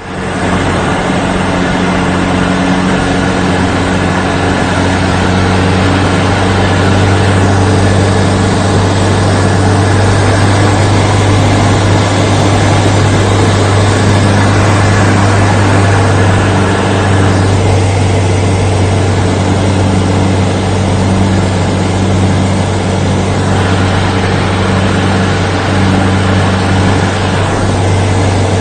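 Engine running steadily: a constant low hum with overtones under a loud wash of noise, starting abruptly and holding unchanged.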